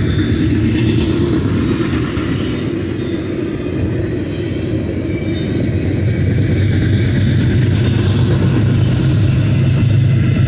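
BNSF double-stack intermodal container train rolling past: a steady rumble of wheels on rail that grows somewhat louder in the second half.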